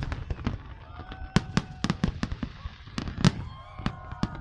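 New Year fireworks display bursting: a rapid, irregular string of sharp bangs.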